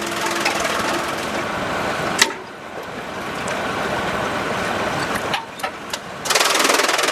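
Engine-driven sawmill machinery running. A sharp knock comes about two seconds in, after which it runs quieter, with a few more knocks before it grows loud again near the end.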